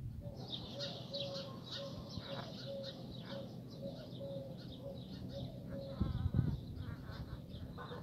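Small birds chirping in quick high notes over a low hum that comes and goes in short pulses, with a brief louder sound about six seconds in.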